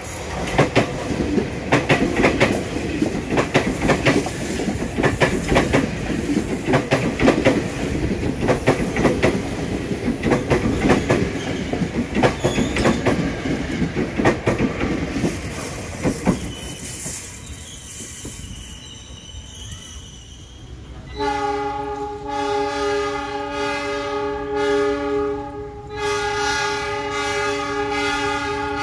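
A KRL Commuter Line electric train, a former Tokyo Metro 6000 series set, passes close on a curve, its wheels clattering rapidly over the rails for about 16 seconds before fading away. About 21 seconds in, a locomotive's multi-tone horn sounds one long blast, breaks off briefly, and sounds again.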